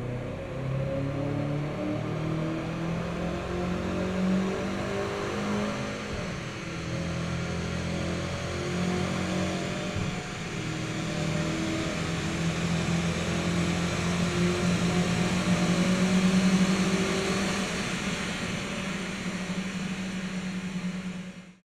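BMW F10 M5's twin-turbo V8 at full throttle on a chassis dynamometer, pulling hard through the top gears as road speed climbs past the usual 250 km/h limit toward about 290 km/h, with the speed limiter removed. A thin whine rises slowly in pitch throughout, and the sound cuts off suddenly at the very end.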